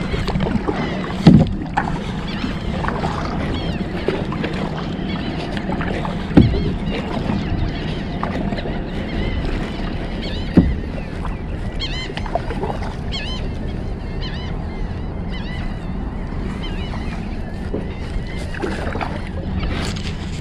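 Water sloshing against the hull of a Vibe Seaghost 130 fishing kayak, with three sharp knocks against the boat spaced a few seconds apart.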